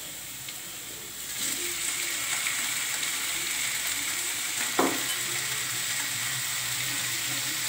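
Raw chicken pieces going into a hot kadai of fried onion and spice masala, the oil sizzling. The sizzle grows louder about a second and a half in and stays up, with a single knock a little past halfway.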